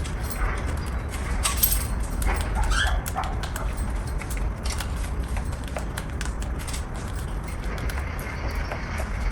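Pet cockatiels giving a few short chirps in the first three seconds, with scattered light clicks and taps over a low steady rumble.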